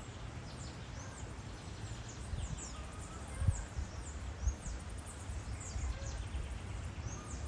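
Many short, high bird chirps sliding downward, overlapping one another, over a low rumble. Two dull thumps stand out, the louder about three and a half seconds in and another a second later.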